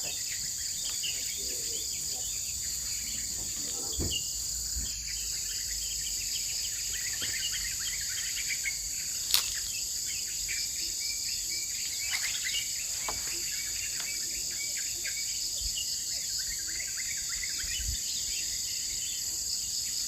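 A steady, high-pitched insect chorus, with scattered short chirps over it. A single sharp click comes about nine seconds in.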